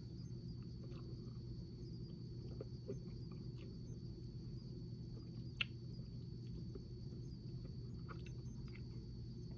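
Quiet chewing of a small chewy candy: soft mouth clicks and smacks over a steady low hum, with one sharper click about five and a half seconds in.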